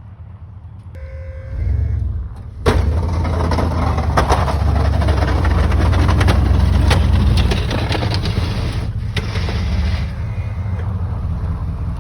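A plow truck's engine runs low and heavy. About three seconds in, a loud, rough clattering and scraping starts abruptly and keeps going, easing off near the end.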